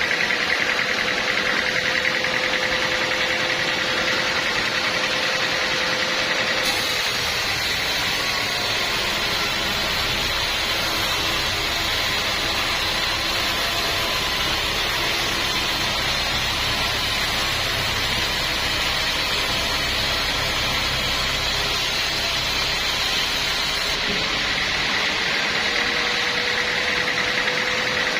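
Portable sawmill running steadily. For most of the middle stretch the sound changes, with more hiss and a deeper rumble as the blade is under load cutting through wood, then it settles back to its steady running note near the end.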